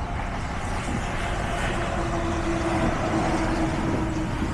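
Heavy construction machinery running steadily, with a steady whine that comes in about a second and a half in and fades near the end.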